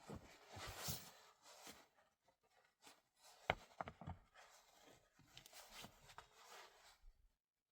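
Faint rustling and scraping handling noises with a few sharp knocks, the loudest about three and a half seconds in.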